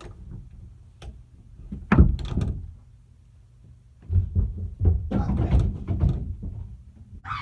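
A door thudding shut about two seconds in, followed by a few seconds of irregular low thumps and rustling.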